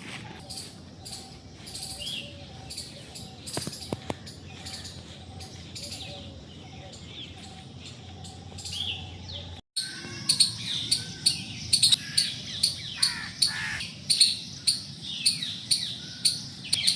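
Wild birds chirping and calling in a mixed chorus. About ten seconds in the recording cuts to louder, rapid sharp chirps repeating about three times a second, over other birds' falling calls.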